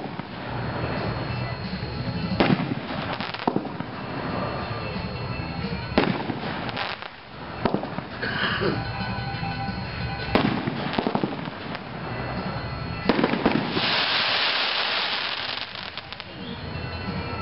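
A 9-shot consumer fireworks cake, Winda's 'Never Surrender', firing: sharp booms go off one after another, a second or a few seconds apart. Near the end comes a dense burst of crackling.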